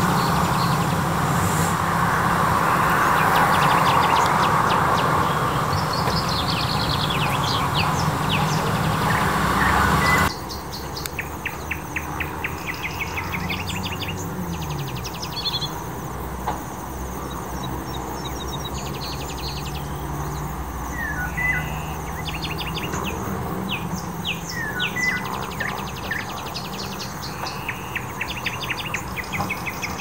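Several small birds chirping and singing in quick trills, over a loud steady background rumble with a low hum that cuts off abruptly about ten seconds in. After that the birdsong carries on over a quieter outdoor background.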